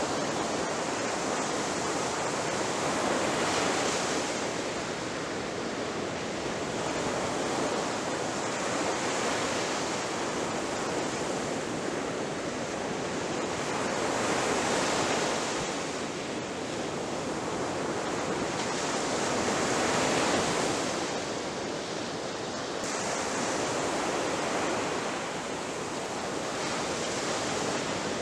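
Ocean surf: waves breaking and washing up the shore in a continuous hiss that swells and eases every few seconds.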